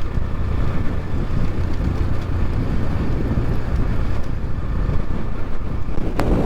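Wind buffeting the microphone of a moving X-Pro Templar X 250 dirt bike, a steady low rumble with the bike running underneath. A single sharp click about six seconds in.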